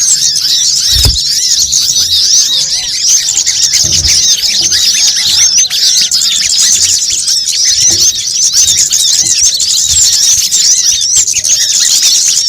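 A bird-trapping lure recording of a noisy flock of small birds, with sunbirds among them: dense, overlapping high chirps and quick twittering notes with no pause. A few low thumps sound now and then underneath.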